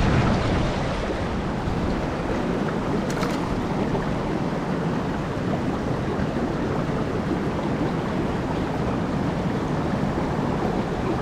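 Steady rushing of a mountain headwater stream, water pouring over rocks.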